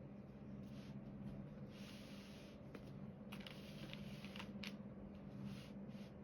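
Quiet hand work on a diamond painting: several short rustling, scraping bursts and a few light ticks, as of the pen, drills and film on the canvas, over a steady low hum.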